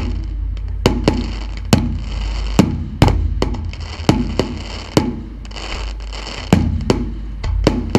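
Fireworks display: aerial shells bursting in a series of sharp bangs, roughly one every half second to second, with crackling between them and a steady low rumble underneath.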